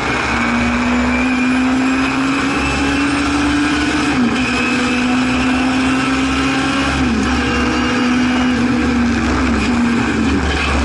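Singer Chamois racing saloon's rear-mounted four-cylinder engine running hard under full load, heard from inside the cabin over road and wind noise. The note climbs slowly, dips briefly about four seconds in and again about seven seconds in, then falls in steps near the end.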